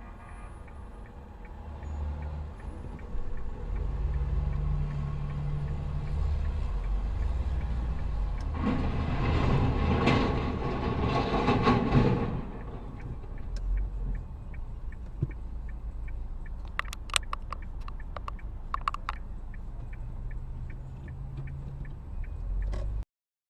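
Car driving, with a steady low engine and road rumble. A louder rushing noise swells for about four seconds near the middle. A run of sharp clicks and knocks follows a few seconds later, and the sound cuts off abruptly just before the end.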